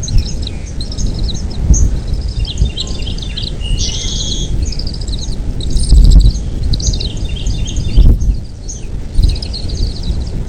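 Birds chirping: many short, high chirps and trills overlapping throughout, over a loud low rumble with a couple of heavier thumps about six and eight seconds in.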